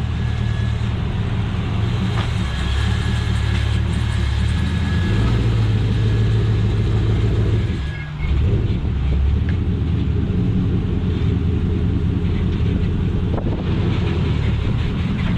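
Classic car engines running at low speed, a steady deep rumble that dips briefly about eight seconds in.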